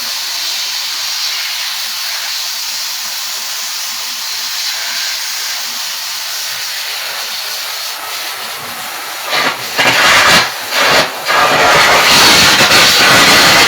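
Electric arc welding arc hissing steadily. About nine seconds in it turns louder and crackling, and cuts out twice briefly soon after.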